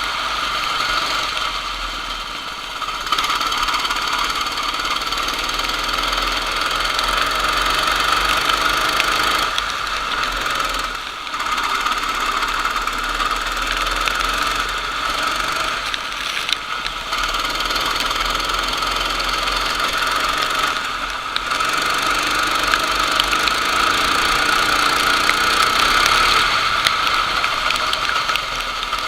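Kart engine running hard, its note dipping briefly a few times and then climbing again.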